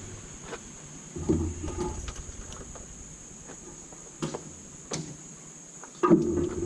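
Scattered clicks and metallic knocks of a hand tool, a 10 mm socket, working the rocker-arm bolts on the engine. The two loudest knocks come about a second in and near the end.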